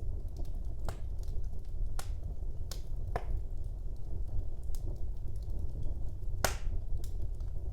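Wood fire burning in a fireplace: a steady low rumble of the flames with irregular sharp crackles and pops, the loudest pop about six and a half seconds in.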